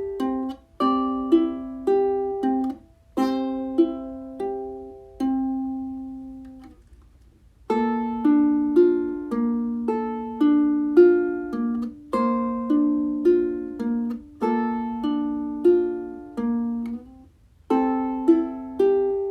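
Solo ukulele playing a gentle instrumental melody of plucked notes and chords, falling silent for about a second around seven seconds in before the phrase starts again.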